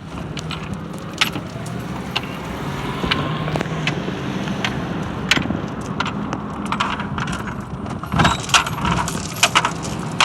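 CSX freight train passing: a steady low diesel drone with frequent sharp metallic clanks and rattles, which come thicker near the end.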